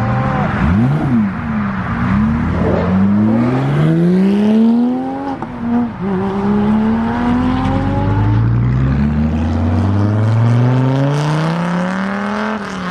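Car engine blipped once, then accelerating hard through the gears: three long rises in pitch, each broken by a sudden drop at a gear change.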